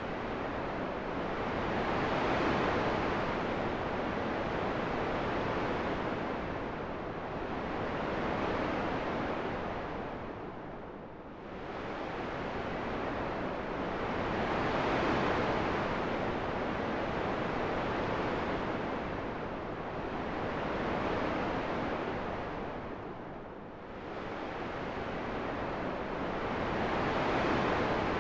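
Steady rushing wind that swells and eases in slow surges, with two brief lulls about twelve seconds apart.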